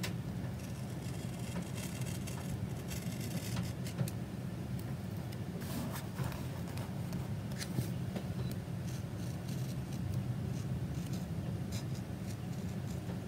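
Journaling handling sounds: paper and stickers rustling and scraping, with scattered small clicks, over a steady low hum.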